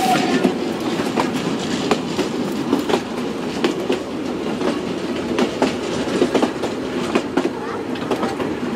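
Chemin de fer du Vivarais heritage train's carriage running along the track, heard from inside the carriage: a steady rumble with irregular clicks of the wheels over the rail joints. A held high tone fades out just after the start.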